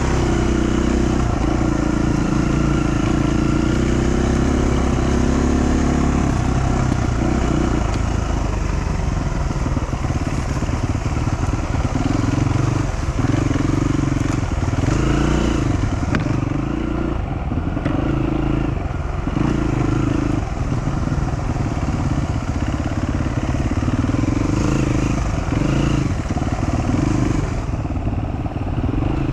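Dual-sport motorcycle engine running while riding a trail, steady at first, then the throttle repeatedly opens and closes every second or two.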